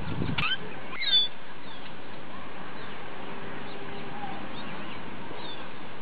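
Birds chirping in short high notes, the loudest about a second in and fainter ones repeating a few times, over a steady hiss.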